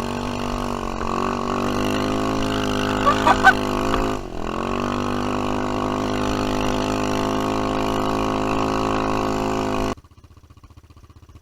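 Jaeger 200 quad bike engine running hard and steady, dipping briefly about four seconds in and then picking up again, as the bike, stuck on its belly in deep snow, is driven to work it free. The sound cuts off abruptly near the end.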